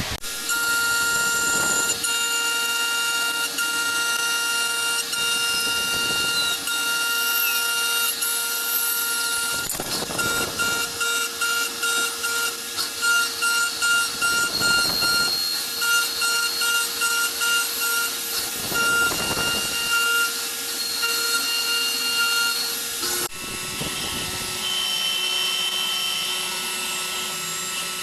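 CNC machine running a cut: a steady high spindle whine made of several tones over a hiss of cutting noise, with louder surges every few seconds and a pulsing stretch in the middle; the whine changes pitch near the end.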